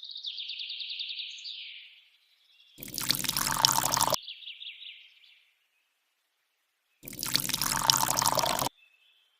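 Water pouring and splashing in short bursts that start and stop abruptly, between stretches of a high, rapidly pulsing chirp.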